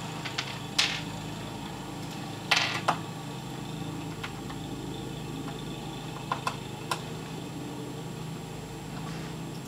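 Steady low indoor hum with a few short, sharp clicks and taps, about three small clusters.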